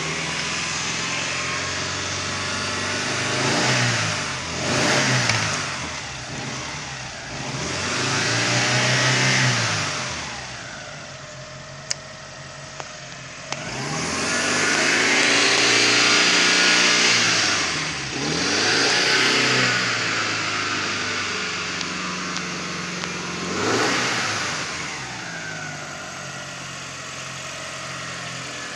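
Great Wall V240's 2.4-litre four-cylinder petrol engine idling and being revved up and back down several times, once held high for a few seconds about halfway through, as it is test-run.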